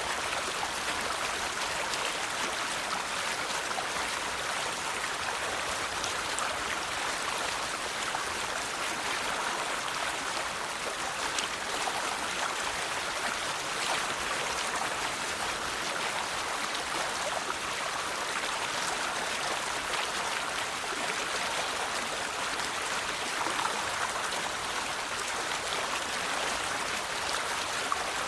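River water flowing steadily over rocks, an even rushing babble with small splashes and trickles.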